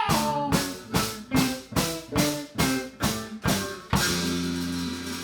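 Live band ending a song: a run of accented full-band hits with drum kit, about two a second, then a held final chord from about four seconds in that rings on.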